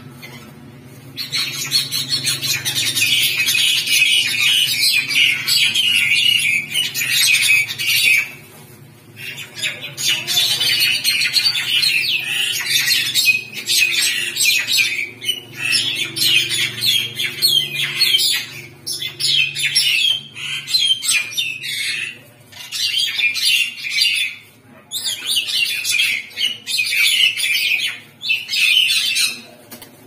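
Birds fighting, giving rapid, harsh, high-pitched chattering and squawking calls almost without a break, with a few short pauses.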